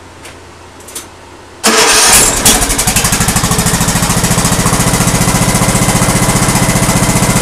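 Lawn tractor engine starting: a couple of faint clicks, then about two seconds in it cranks and catches at once and settles into a steady idle with an even, rapid beat.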